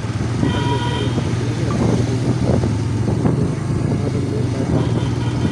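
Motorcycle engine running steadily while riding, with road and wind noise. A short horn honk sounds about half a second in.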